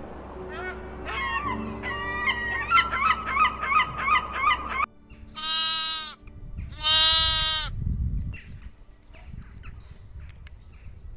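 A gull giving a rapid series of short yelping calls, then a lamb bleating twice in two long calls about a second apart.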